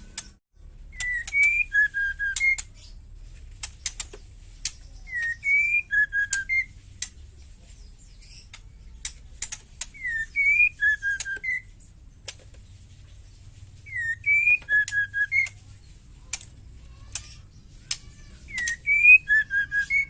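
Female white-rumped shama calling: a short whistled phrase of a rising note and a few quick lower notes, repeated five times about every four to five seconds, with sharp ticking chatter notes between the phrases.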